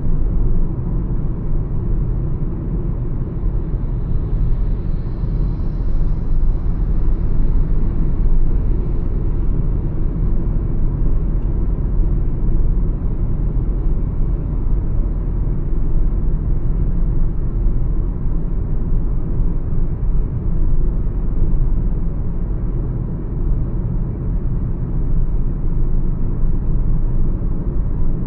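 Mahindra XUV 300 cruising at highway speed: a steady, loud rumble of road and wind noise. Higher hiss swells and fades about four to nine seconds in.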